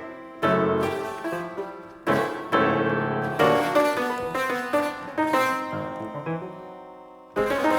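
Solo piano playing: forceful struck chords that ring and die away, with busier passages between them and a loud new chord near the end.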